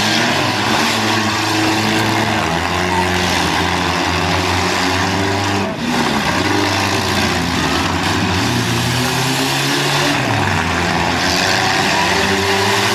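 Several demolition derby cars' engines running and revving together, their pitches rising and falling as they drive.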